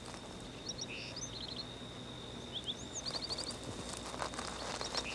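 Outdoor ambience: small birds chirping in short, quick series of high notes, with one arching call near the middle, over a steady high-pitched whine.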